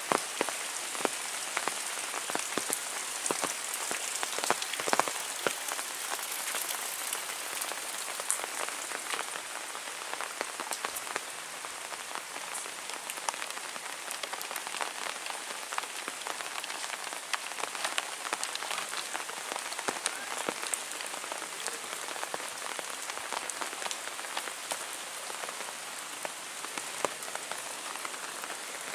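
Heavy rain falling steadily, with many close drops ticking sharply on a hard surface.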